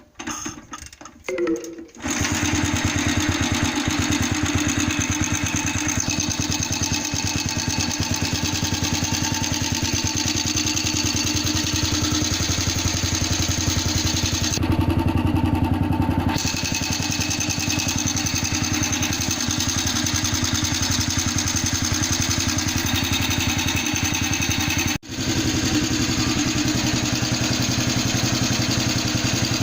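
Freshly rebuilt NSU Pretis 175 two-stroke single-cylinder engine catching about two seconds in, after a few short attempts, then running steadily.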